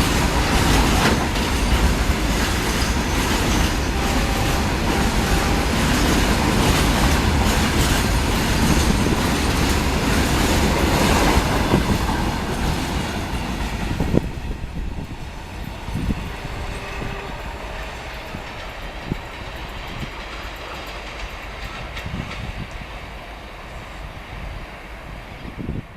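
Indian Railways express passenger train passing at speed, its wheels clattering over the rail joints. The noise falls away sharply about fourteen seconds in, leaving a fainter rumble with scattered knocks as the train recedes.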